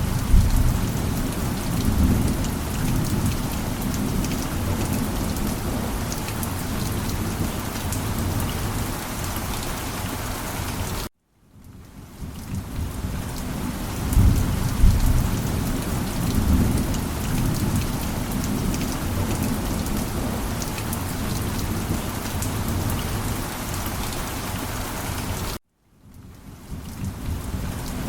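Steady heavy rain with low thunder rumbling in swells now and then. The sound cuts off abruptly twice, about 11 and 25 seconds in, and each time fades back in over a second or two.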